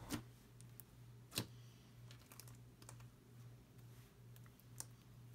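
Fishbowl-bead slime being handled, giving faint scattered clicks and crackles from the beads, with louder clicks at the start, about a second and a half in, and near the end.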